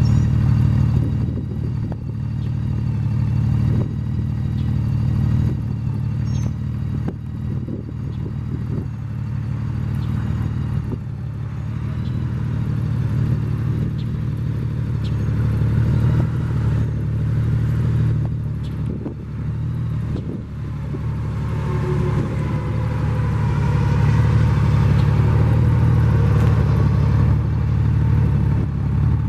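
2014 Honda Valkyrie's flat-six engine running through its stock exhaust, a steady low engine note that swells a little from about two-thirds of the way through.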